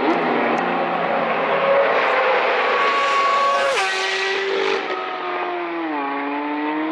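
Superbike racing motorcycles running past on a parade lap, several engine notes at once. A little past halfway one passes close, getting louder and then dropping sharply in pitch, and another note falls away near the end.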